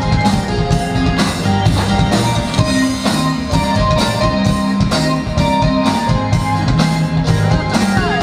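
Live pop-rock band playing an instrumental intro: electric guitar, bass guitar, keyboards and a drum kit keeping a steady beat, before the vocals come in.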